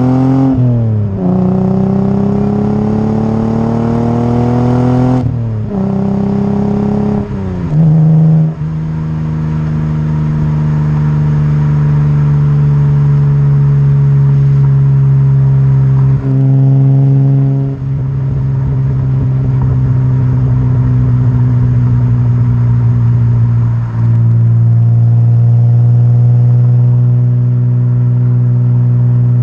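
Exhaust note of a Lexus SC300's 2JZ-GE inline-six through a Blitz Nur Spec-R exhaust. The engine pulls up in pitch through two gears, dropping sharply at each upshift. It then settles into long stretches of steady cruising, with a few brief gear changes.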